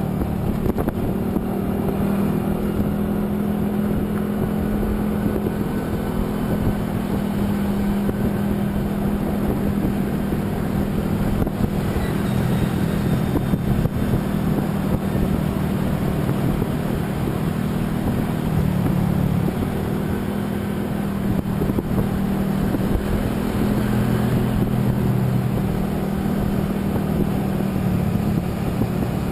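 A motor vehicle running steadily at road speed: a continuous engine hum over road and wind noise, its pitch shifting slightly a couple of times.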